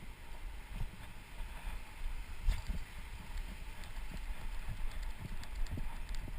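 Dog's footfalls and the jostling of the harness-mounted camera: irregular low thuds over a steady low rumble, with one harder knock about halfway through and a few faint clicks near the end.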